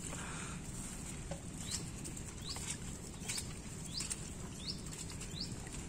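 A bird giving a short, high chirp over and over, about once every three-quarters of a second, starting a little under two seconds in, over a steady outdoor background hiss.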